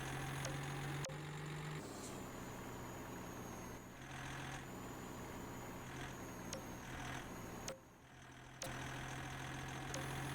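Scania truck's diesel engine running steadily, a low even hum, with a few sharp clicks and a brief drop in level about eight seconds in.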